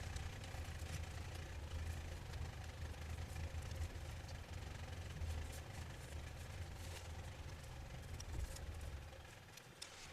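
A motor running with a steady low hum and light rattling and ticking, fading out near the end.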